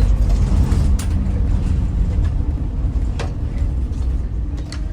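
Onboard a Scania N94UD Omnidekka double-decker bus: a steady low engine and road rumble, with a few sharp rattles or knocks from the bodywork, about a second in, after three seconds and near the end.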